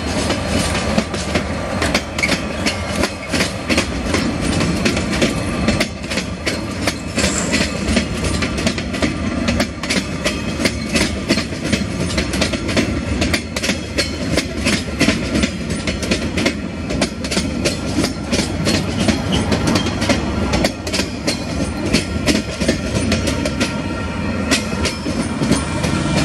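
Freight train passing close by: several KiwiRail diesel-electric locomotives and then container flat wagons rumble past, with the wheels clicking steadily over the rail joints.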